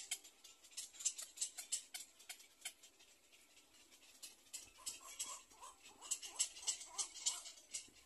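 Birds calling: sharp, rapid high clicks, several a second, joined about halfway through by a run of short, repeated chirping notes.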